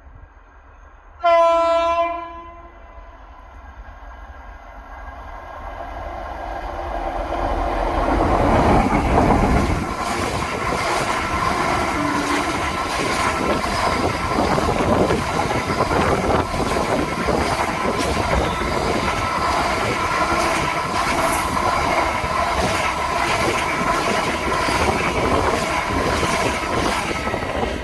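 A train sounds one short horn blast. It then approaches, getting steadily louder, and runs past with wheels clattering rhythmically over the rail joints.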